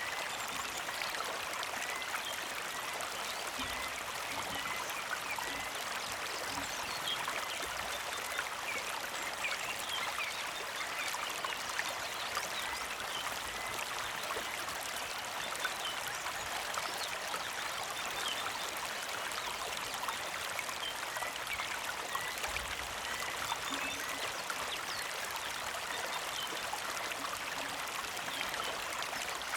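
Small creek flowing and trickling steadily, with a constant splashing patter. A bird gives a short chirp about twice a second during the first few seconds.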